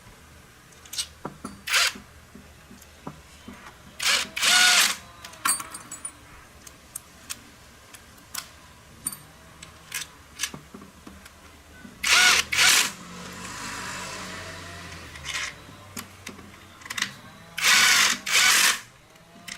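A handheld power tool run in short bursts, mostly in quick pairs, with the pitch swelling and falling on each burst. Small clicks and knocks come in between.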